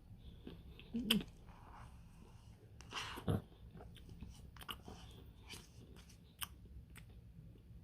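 Close-up eating sounds of a partly frozen Dairy Queen Blizzard being eaten: chewing and biting with a little crunch, plus scattered short sharp clicks. The loudest moments come about a second in and just after three seconds.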